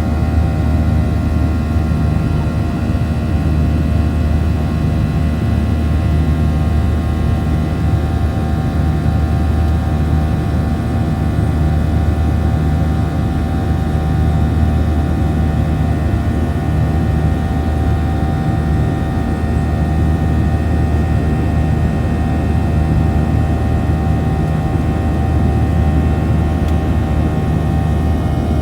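Cabin drone of a Boeing 737-800's CFM56-7B turbofans running at steady thrust: a loud, even low rumble with a cluster of steady whining tones over it.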